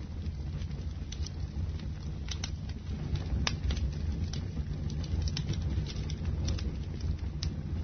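Bonfire burning, a steady low rumble of the flames with irregular sharp crackles and pops of the burning wood.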